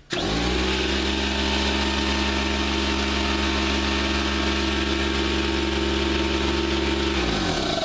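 Husky 20-gallon, 175 psi oilless air compressor's electric motor starting up and running steadily, then shut off and spinning down about seven seconds in.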